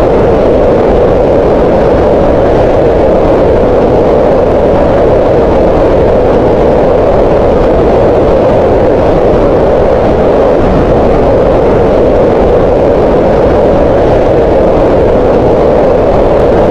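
Green noise: a loud, steady, unchanging hiss with its weight in the middle pitches.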